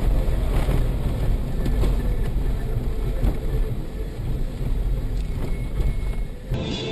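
Steady low rumble of a moving vehicle, with scattered light knocks. Near the end it cuts off abruptly to a different recording.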